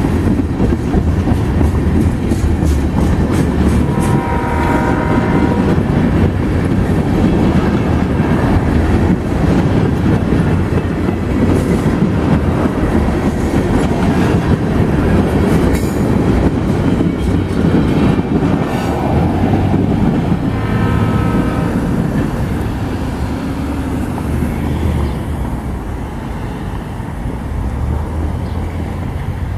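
Freight train of tank cars rolling past close by, steel wheels clattering over the rail joints, with a brief high ringing tone twice. The noise eases off near the end.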